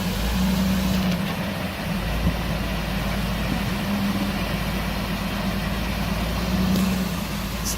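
Engine of an off-road vehicle running steadily at low revs while it crawls up a rock obstacle, a continuous low hum.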